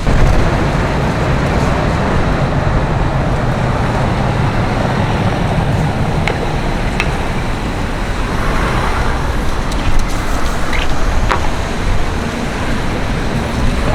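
Road traffic on a busy city street: a steady rumble of passing cars and buses, with a few brief sharp clicks about halfway through.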